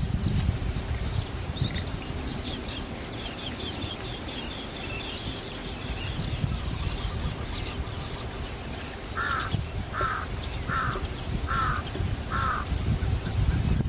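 Birds calling: many short, high chirps through the first half, then a run of five harsh calls, a little under one a second, in the second half.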